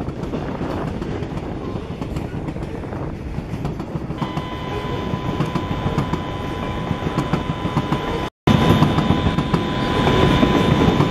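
Freight train of autorack cars rolling past, its wheels rumbling and clacking over the rail joints. About four seconds in a steady high-pitched squeal joins, typical of wheel flanges grinding on a curve. The sound cuts out briefly a little after eight seconds and comes back louder.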